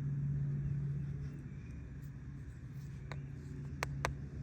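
Microtech Troodon out-the-front knife being worked after a shot of WD-40: three sharp clicks near the end, the last two close together, as the blade snaps out and back. A steady low hum runs underneath.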